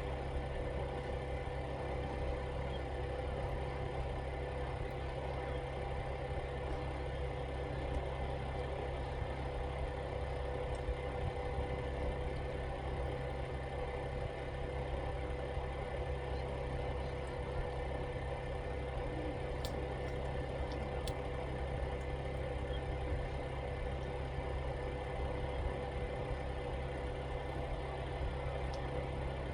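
Steady mechanical hum with a few faint clicks partway through.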